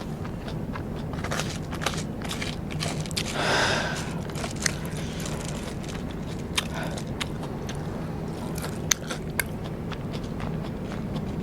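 Close-miked chewing and biting of Vietnamese rice paper (bánh tráng) snacks: wet mouth sounds and scattered sharp crunchy clicks, with a short louder burst about three and a half seconds in.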